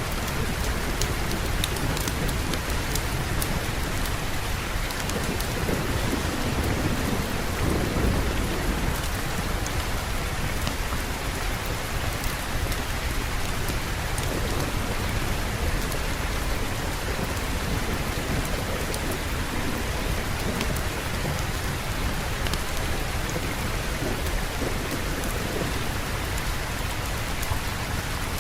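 Steady heavy rain with low rolling thunder that swells near the start and again about eight seconds in.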